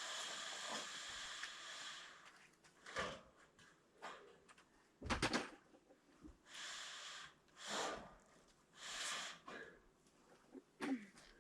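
A steady hiss that stops about two seconds in, then a string of knocks and short scraping sounds from work handling the roofing, the loudest a heavy thump about halfway through.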